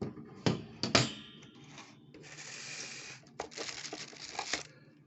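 Parts of a microphone kit being handled: two sharp knocks about half a second and a second in, then a stretch of scraping rustle and more rustling with small clicks.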